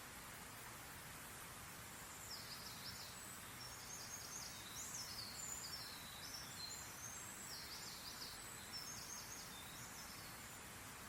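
A songbird singing a long run of quick, high chirps and trills, starting about two seconds in and stopping near the end, over a steady faint hiss.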